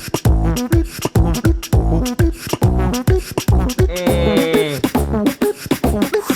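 A cappella beatbox duo performing: vocal kick and snare sounds in a steady beat under a sung, harmonised melody, with a long held note of wavering pitch in the second half.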